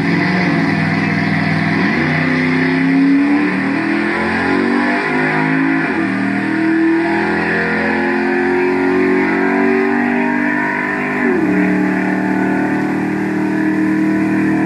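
Small-block Chevrolet V8 in a 1970 Chevy pickup at full throttle down a drag strip. The engine climbs in pitch and drops back at each upshift, the last shift about eleven seconds in.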